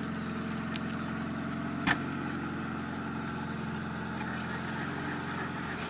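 Off-road 4x4's engine idling steadily, with a short sharp knock about two seconds in.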